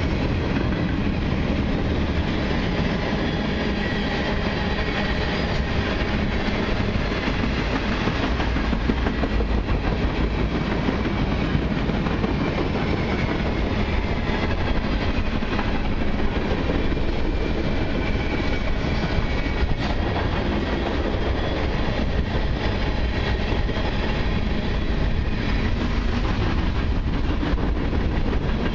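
Freight cars of a long mixed freight train rolling steadily past, a constant rumble of steel wheels on rail with a running clickety-clack over the joints.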